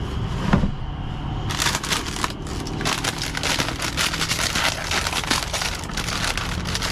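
Crinkly packaging being handled and crumpled in two spells, the first about a second and a half in and a longer one from about three seconds on, over a low steady hum, with one sharp click about half a second in.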